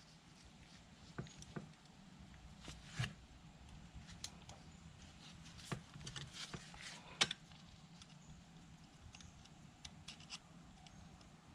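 Faint, scattered small metal clicks and taps of tweezers and a pick on the valve keepers and spring retainer as the keepers are worked into place on the valve stem. The sharpest click comes about seven seconds in.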